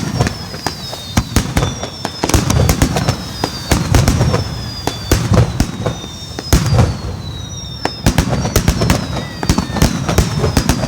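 Aerial fireworks display: a steady barrage of sharp bangs and crackling reports over low booms, with whistling shells whose whistles fall in pitch, one after another every second or so.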